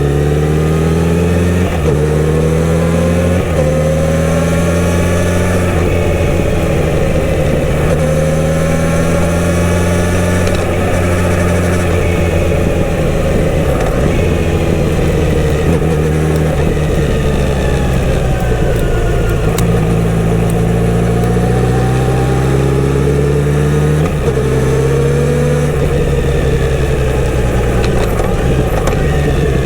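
Kawasaki Z900RS inline-four motorcycle engine through its stock exhaust while riding, engine speed rising and falling with the throttle. There are two quick upshifts in the first few seconds, and another gear change with the engine pulling up again about 24 seconds in.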